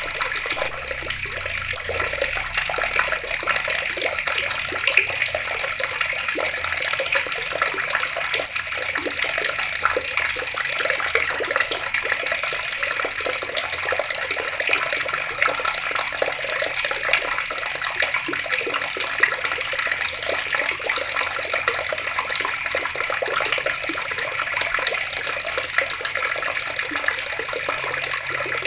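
Outdoor water tap running in a steady stream, splashing continuously.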